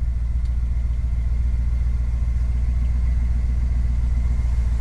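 1968 Ford F250's 390 cubic-inch big-block V8 running at a steady idle, a deep, even rumble heard from inside the cab.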